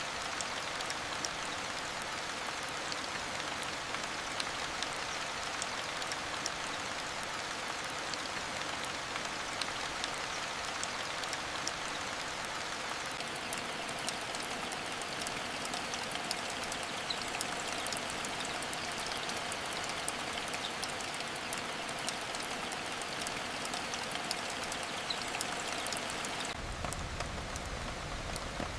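Steady rain with dense, sharp ticks of drops striking a surface. Near the end a low rumble joins in and the hiss drops a little.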